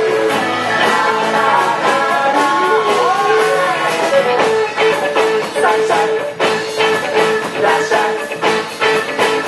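Upbeat band music with singing and guitar. A steady beat of drum strikes grows more prominent about halfway through.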